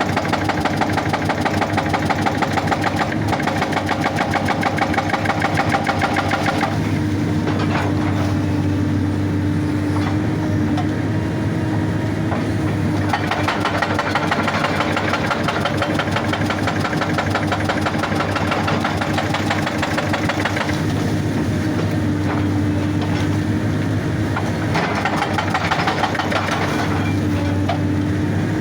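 Excavator's diesel engine running under load while its hydraulic breaker hammers rock in rapid, evenly spaced blows. The hammering stops and starts again several times.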